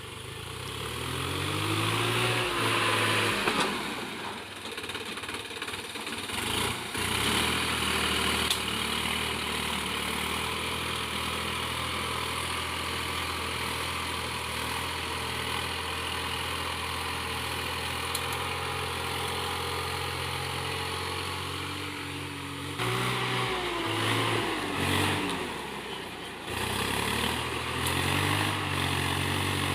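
Swaraj 960 FE tractor's diesel engine working a cultivator: it revs up over the first few seconds, then runs steadily under load, with the revs dipping and picking up again about three-quarters of the way through.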